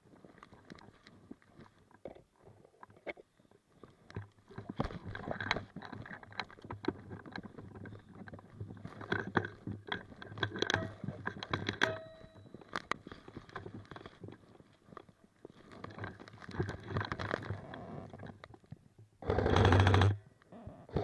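Rustling, scuffing and scattered clicks of movement through brush, then about nineteen seconds in a short, loud full-auto burst from an airsoft gun, a rapid even rattle lasting under a second.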